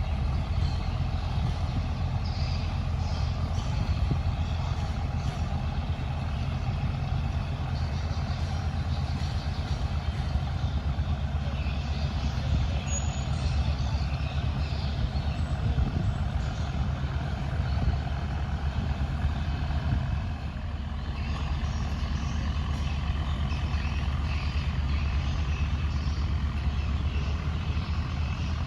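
A boat engine running steadily, a continuous low drone with no change in pace.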